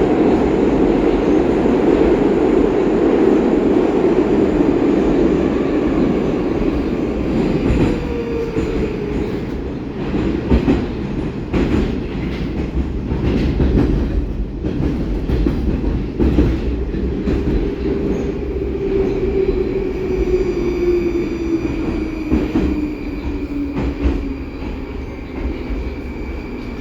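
Metro train running in the tunnel, heard from inside a 'Baltiets' car: loud running noise with clicks from the wheels over rail joints. In the second half a motor whine falls steadily in pitch and the noise eases as the train brakes for a station.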